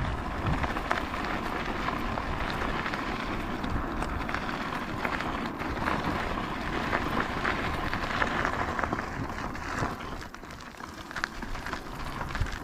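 Riding noise from a bicycle: tyres rolling over a rough, gritty surface, with scattered clicks and rattles, easing off about ten seconds in.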